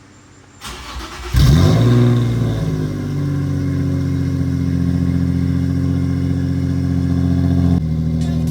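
Nissan 350Z's 3.5-litre V6 cranked on the starter, catching about a second and a half in with a loud flare of revs. It then settles into a steady fast idle through a new HKS exhaust with Megan Racing high-flow cats, and the idle drops a step near the end.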